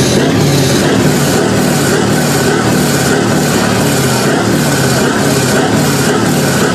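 Heavy vehicle engines running steadily and loudly, with a regular pulsing in the high range about twice a second.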